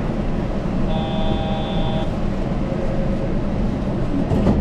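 Steady running rumble of a Yurikamome rubber-tyred automated guideway train heard from on board. About a second in, a steady electronic beep sounds for about a second, and a short knock comes near the end.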